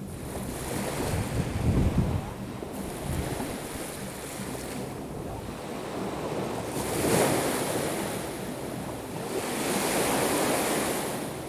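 Black Sea waves breaking and washing onto the shore, with louder rushes about seven and ten seconds in. Wind buffets the microphone with low rumbles near the start.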